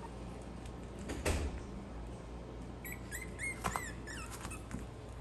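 Maltese puppies giving a run of short, high-pitched squeaks and whimpers about three seconds in, after a single thump a little over a second in.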